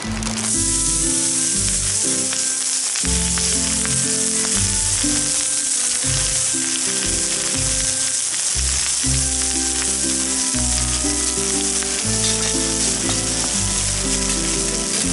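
Food sizzling hard in hot olive oil in a pan, starting suddenly as it goes in and then frying steadily. Background music with a stepping bass line plays underneath.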